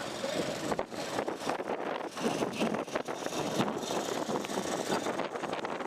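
Wind buffeting and handling noise on a handheld camera's microphone: an uneven hiss broken by many small knocks and bumps.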